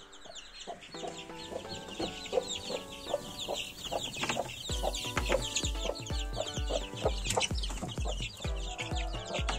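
Many young chicks peeping together, a dense, continuous stream of short high chirps. Background music with a steady beat comes in about five seconds in.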